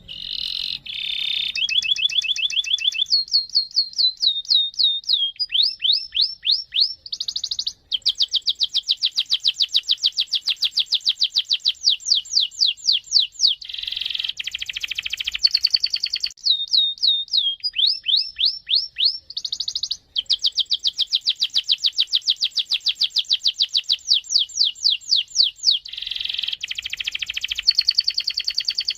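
Canary singing a long, nearly unbroken song of rapid trills and rolls: fast runs of repeated high notes, with quick slides between phrases. The song breaks off only briefly, about 8 and 20 seconds in.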